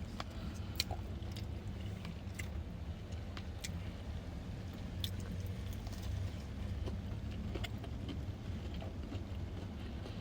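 Faint chewing and mouth clicks while eating fast food, over a steady low hum.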